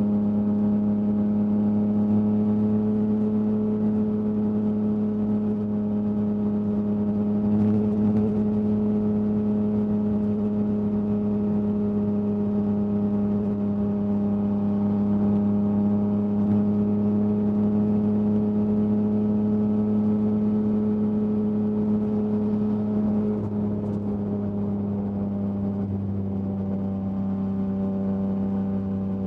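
Yamaha MT-09's inline-three engine breathing through an Akrapovič exhaust, held at steady revs while cruising. It eases slightly quieter about three-quarters of the way through, with no change in pitch.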